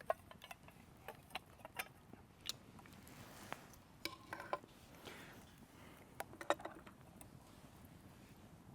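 Scattered light metallic clinks and knocks, with a couple of short scrapes, from a small shovel levelling a spot in the campfire for a pan.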